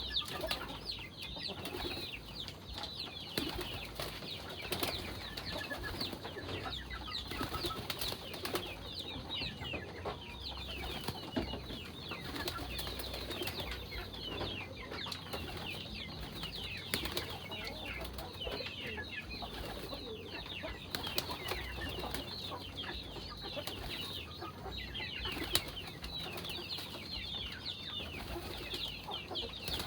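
A flock of birds chirping continuously in many short, high, falling notes, with wings flapping now and then.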